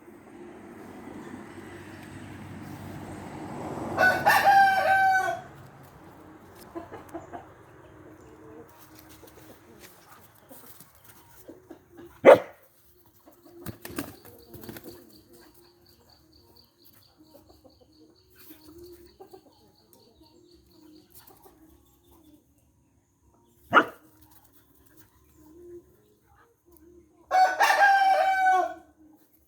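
Rooster crowing twice, once about four seconds in and again near the end, each crow lasting about a second and a half. A few sharp knocks sound in between.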